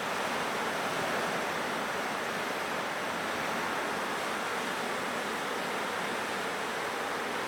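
Continuous wash of ocean surf from a typhoon swell, a steady even roar with no separate wave breaks standing out.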